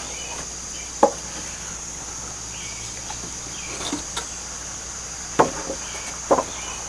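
Sharp knocks of scrap wood pieces being handled and set against each other: one about a second in, a couple of faint ones mid-way, and two more near the end. Steady high insect chirring underneath.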